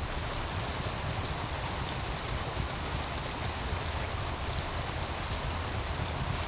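Meltwater stream running steadily, with a low rumble underneath, and a wood fire crackling in scattered small sharp pops.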